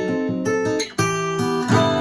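Acoustic guitar fingerpicked, playing the verse's arpeggiated chord pattern with notes ringing over one another; the sound breaks off briefly just before a second in and restarts as the next chord is plucked.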